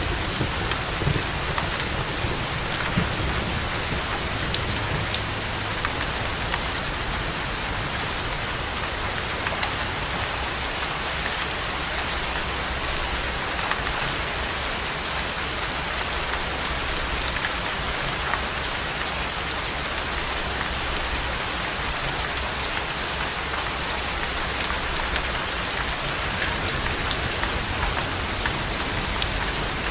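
Steady rain falling, an even hiss with scattered drop ticks. A low rumble of thunder dies away in the first few seconds.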